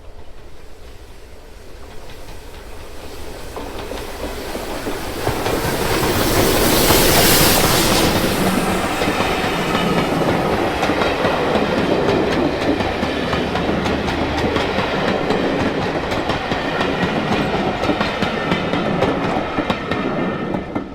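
A train passes close by, growing louder to a peak with a strong hiss about seven seconds in. The coaches then roll past with steady wheel clatter over the rail joints, and the sound ends abruptly.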